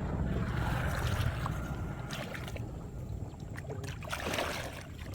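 Water sloshing and splashing in irregular bursts, as if someone is moving through shallow water, over a low rumble that fades after about two seconds.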